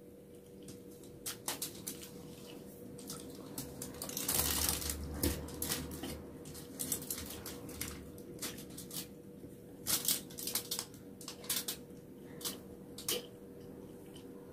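Close-miked eating by hand: chewing a red hotdog and rice, with many short mouth smacks and clicks and fingers picking food off a foil-lined tray. A denser stretch of chewing and handling noise comes about four to six seconds in, over a faint steady hum.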